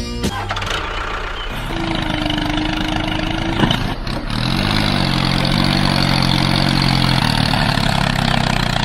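A mini tractor's engine running steadily. About four and a half seconds in, a hum rises in pitch and then holds for a couple of seconds.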